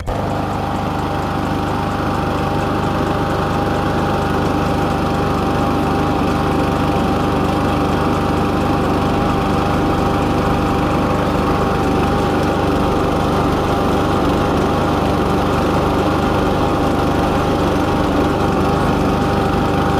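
Lawn mower engine running steadily with a newly fitted carburetor, showing the repair has got it going.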